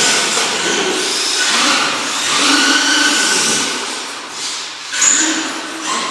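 RC trucks' motors and drivetrains running, a grinding whine that rises and falls as they are driven.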